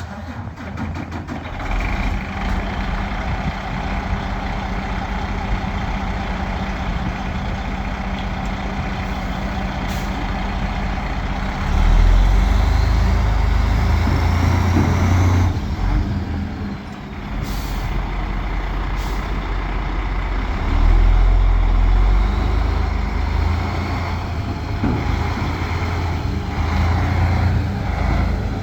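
The diesel engine of a 2007 Sterling L9500 boom truck running steadily, growing louder twice for a few seconds as it revs or takes load. Short hisses of air come in between.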